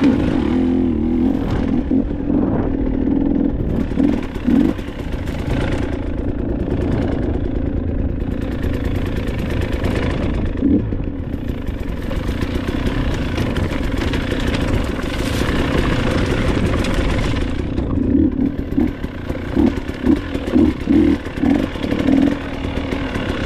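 Dirt bike engine running steadily, with a series of short throttle blips near the end.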